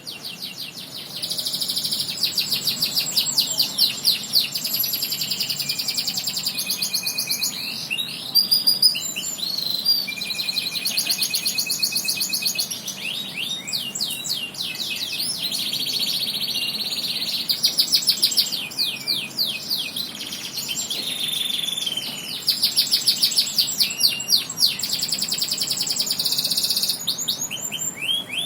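Domestic canary singing a long, continuous song of fast rolling trills and rapid chirped phrases, high-pitched and loud, changing tour every few seconds.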